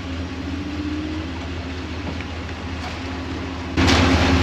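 Steady low hum of an idling vehicle engine. A louder rush of noise comes in suddenly near the end.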